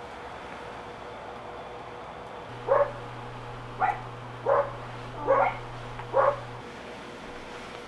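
A dog barking five times, short single barks about a second apart, over a low steady hum.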